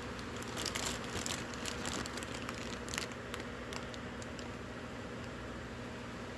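Packaging being handled: light rustling and crinkling with scattered small clicks, mostly in the first three seconds, then quieter, over a steady low electrical hum.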